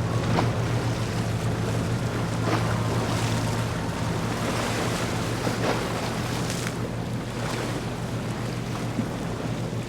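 Boat engines running with a steady low hum, under a wash of water and wind noise.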